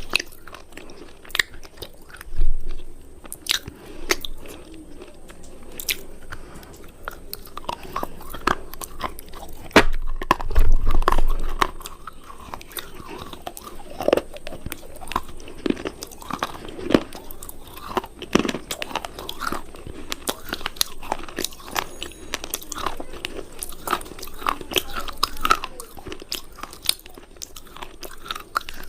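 Close-up crunching of hard cubes being bitten and chewed, a dense run of irregular sharp cracks and crumbles. A louder dull thump comes about two seconds in and a longer low rumble about ten seconds in.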